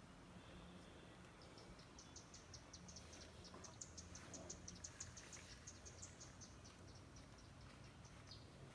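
Near silence with faint, rapid, evenly spaced insect chirping, about five to six chirps a second, starting about a second and a half in.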